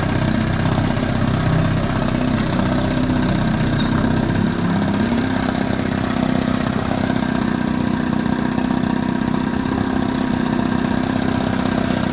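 A 1952 Mercury KF5 two-stroke outboard motor running steadily at cruising speed, its pitch stepping up slightly about five seconds in.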